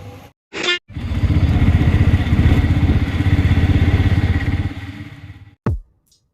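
Motorcycle engine running close by, its rapid firing pulses loud for about four seconds before fading away. A deep electronic drum beat begins near the end.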